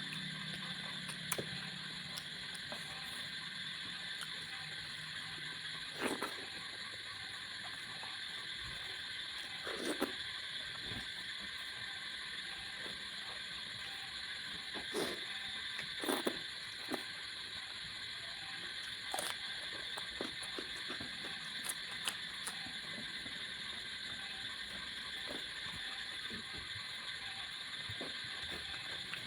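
Eating sounds of a person chewing fish curry and rice: scattered sharp smacks and clicks, one every few seconds, over a steady high hiss.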